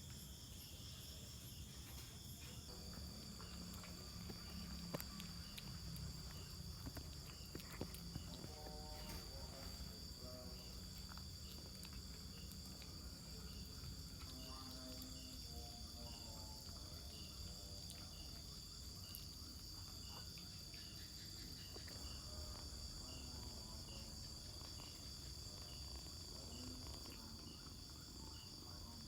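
Steady outdoor insect chorus: a continuous high-pitched drone with a faint regular chirp repeating a little faster than once a second, over a low background rumble.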